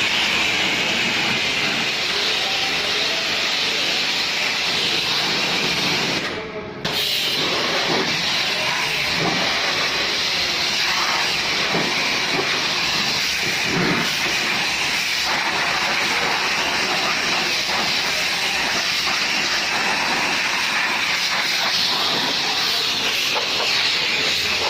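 Car-wash pressure washer spraying as a steady loud hiss, cut off briefly about six seconds in and then started again.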